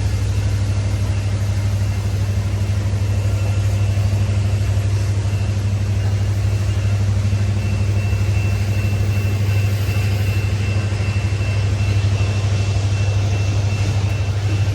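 An engine running steadily, a constant low hum that does not change in pitch or loudness, with a faint thin high whine above it.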